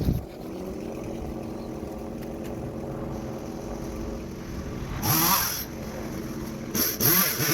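Stihl chainsaw engine idling steadily, then revved up briefly twice, about five seconds in and again near the end.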